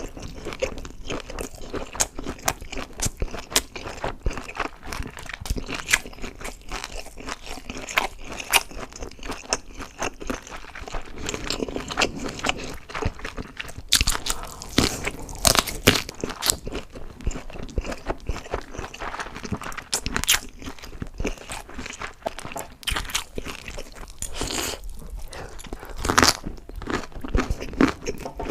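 A person chewing crunchy food close to the microphone: a steady run of crackling crunches, with louder bites about halfway through and again near the end.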